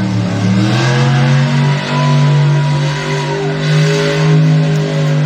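Monster truck engine at high revs: the pitch climbs a little in the first second, then holds high and steady at full throttle.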